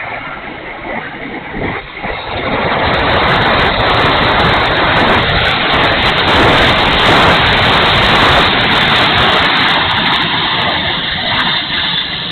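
E-flite F-16 70mm electric ducted-fan RC jet in flight: a loud rushing whoosh that builds about two seconds in, peaks and distorts for several seconds, then eases, with wind buffeting the microphone.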